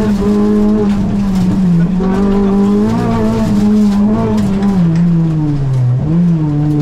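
Rally car engine heard from inside the cockpit while driving a stage hard, its revs rising and falling with throttle and gear changes. The pitch drops steadily from about four to five and a half seconds in as the car slows, then climbs again near the end.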